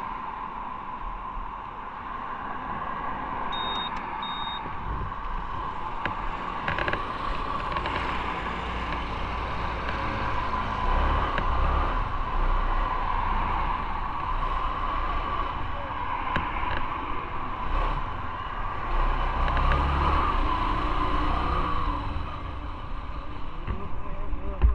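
Motorcycle underway: steady engine and wind noise, swelling a little at times. Two short high beeps come about four seconds in.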